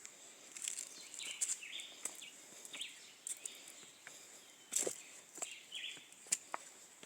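Footsteps crunching irregularly over rough ground, with sharp clicks and scuffs, over a steady faint high hiss.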